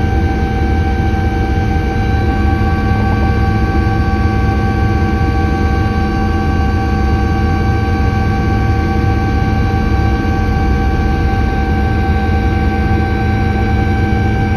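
Helicopter in flight: a steady low rumble with a constant high whine on top, unchanging throughout.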